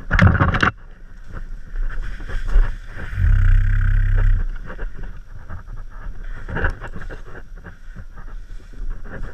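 Dirt bike engine running, with wind noise and knocks on the microphone. A loud burst right at the start, then a steady engine note for about a second around three seconds in.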